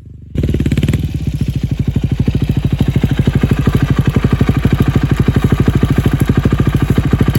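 Yamaha WR400F four-stroke single-cylinder engine idling, with the dB killer removed from the exhaust, giving a loud, even thump of about ten firing pulses a second. It cuts in suddenly about half a second in, replacing a muffled engine sound.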